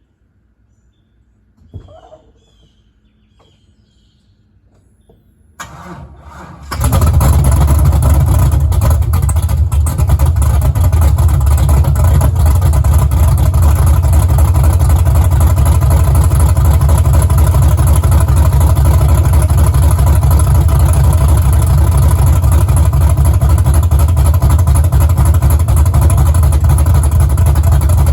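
Silverado's 6.0-litre LS2 V8 with a BTR Stage 4 cam being cold-started: a single thump about two seconds in, then the starter cranks about six seconds in. The engine catches within a second and runs on at a loud, steady idle.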